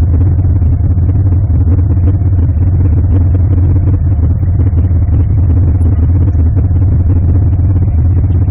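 Steady low rumble of a running car engine, holding an even pitch with no revving or breaks.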